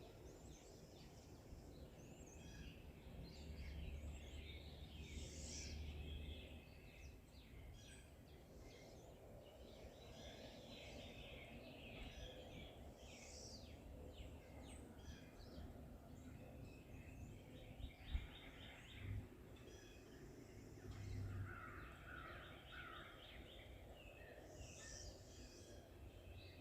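Faint forest birdsong: several birds chirping and trilling in overlapping calls over a low steady rumble, with one brief thump about two-thirds of the way through.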